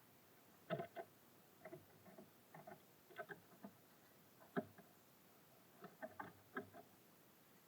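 Irregular soft taps and knocks of small birds landing, hopping and pecking at seed on a bird feeder, in small clusters with pauses between.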